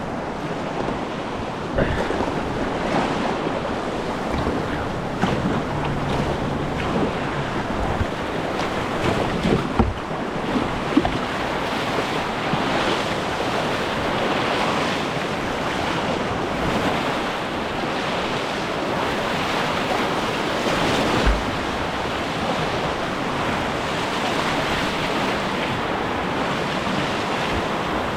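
Whitewater river rushing and splashing close around the kayak, a steady loud noise, with a few sharp knocks and splashes standing out, the clearest about ten seconds in.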